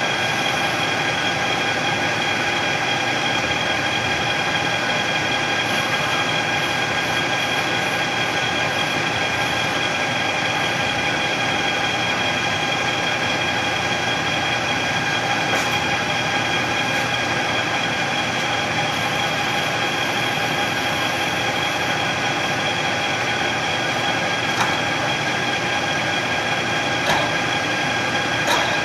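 A machine tool used to cut a billet shift knob runs steadily, with a constant motor whine over a rushing noise. A few light clicks or taps come in the second half.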